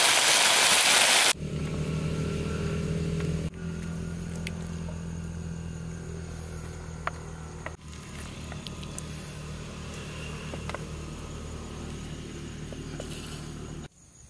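Sauce-coated chicken wings sizzling loudly in a wok, cut off sharply after about a second. Then a quieter steady low motor hum with a few faint clicks and crackles.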